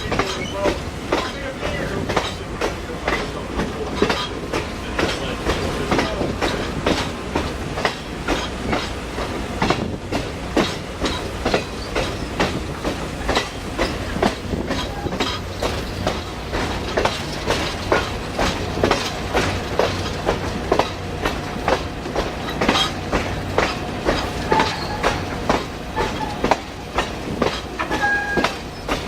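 Passenger train cars rolling along the track: a steady low rumble with a quick run of sharp clicks as the wheels cross rail joints.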